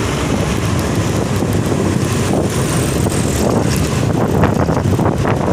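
A heavy truck's engine running steadily as it works through a sharp bend.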